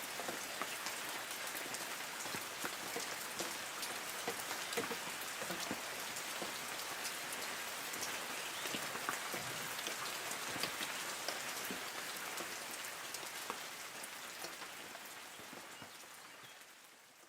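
Light rain falling on forest trees: a steady hiss of rain with many separate drops ticking on leaves, fading out over the last few seconds.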